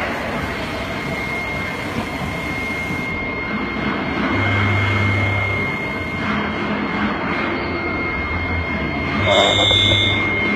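Haas ST-20SSY CNC lathe running a cut: steady machining noise with a high, even whine. A low hum comes in twice, and there is a brief louder burst near the end.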